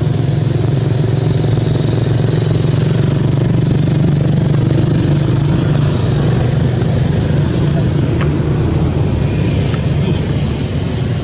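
A steady, loud low rumble like a motor engine running, with an even hiss above it.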